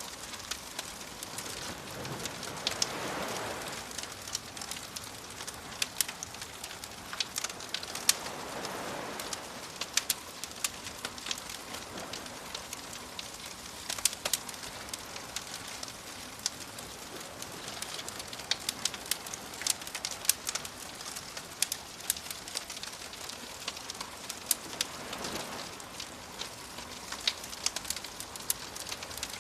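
Wood fire crackling, with frequent sharp pops over a steady hiss, and soft waves washing in three times: near the start, about a third of the way through, and near the end.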